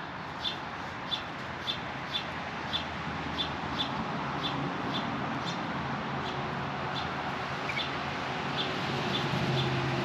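A small bird at a feeder repeating a short, high chirp about twice a second, fading somewhat in the second half. Under it is a steady background rush, with a low hum coming in about six seconds in.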